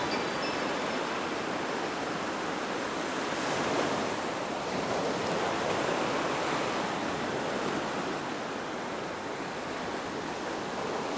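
Steady rushing of sea water and surf, swelling gently in loudness a couple of times.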